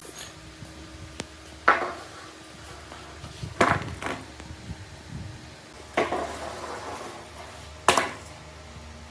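Four sharp metal knocks about two seconds apart, each ringing briefly, over a low steady hum.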